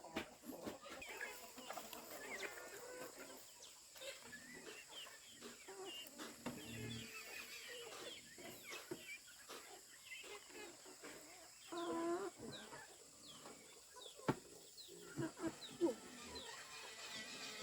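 Faint chickens clucking and chirping, with a few sharp clicks, one about fourteen seconds in.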